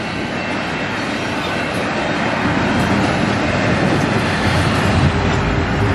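Double-stack intermodal freight train's loaded well cars rolling past: a steady rumble of steel wheels on the rails that grows louder over the last few seconds.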